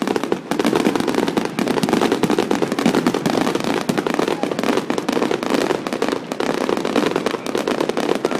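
Fireworks going off in a dense, continuous crackle of rapid bangs, one after another with no gap.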